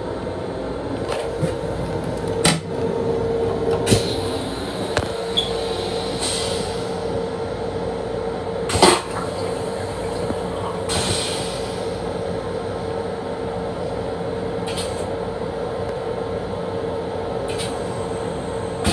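Steady noise of a Long Island Rail Road M7 electric railcar heard from inside its small restroom, with a constant hum and a few sharp knocks and clicks, the loudest about nine seconds in.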